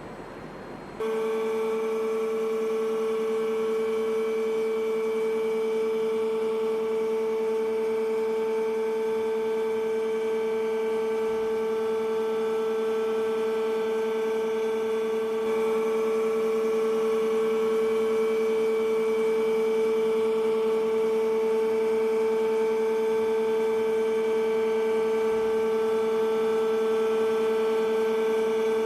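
Innocenti Mitsubishi FAF-140/95 CNC milling and boring machine starting up about a second in and running with a steady whine and hum, a little louder about halfway through.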